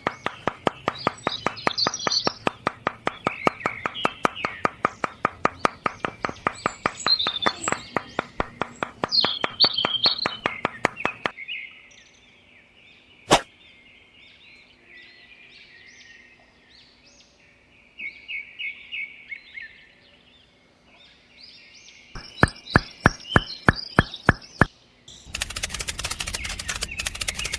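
Small birds chirping over a fast, even mechanical ticking that stops about eleven seconds in. Birdsong continues alone, then a short run of louder ticks comes back near the end, followed by a loud hissing noise.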